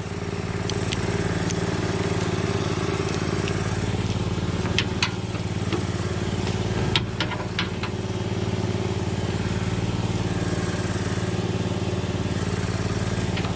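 A motor running with a steady, even hum, with a few sharp metallic clicks and taps about five and seven seconds in.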